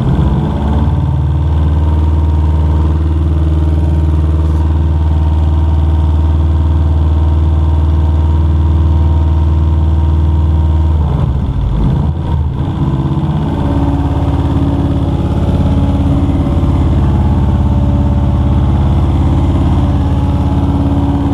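Subaru GC8's freshly rebuilt flat-four engine idling steadily. Its note wavers for a moment about halfway through, then settles at a slightly different pitch.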